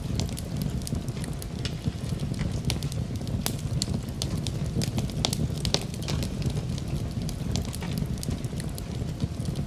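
Wood fire burning in a fireplace: a steady low rumble of flames with irregular sharp crackles and pops from the burning wood, a few louder pops standing out.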